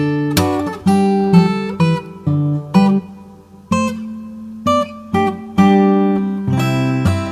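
Background music on acoustic guitar: plucked notes and chords, each ringing out and fading, with a short lull about three seconds in.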